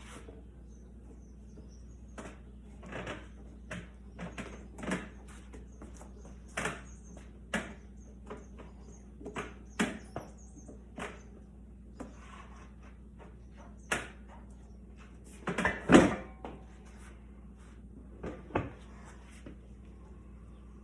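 A motorcycle tire being levered onto its rim by hand with a tire-mounting tool: irregular knocks, clanks and short scrapes of tool, rubber and rim. The loudest clatter comes about 16 seconds in.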